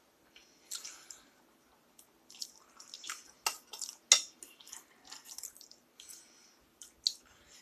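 A person chewing a mouthful of goulash close to the microphone: wet mouth and chewing sounds, broken by a few sharp utensil clicks, the loudest about four seconds in.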